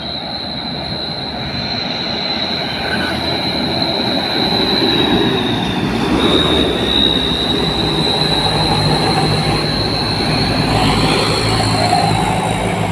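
Dump trucks' diesel engines running under load on a steep climb, with a steady high-pitched whine over the drone. The engine hum grows stronger in the second half.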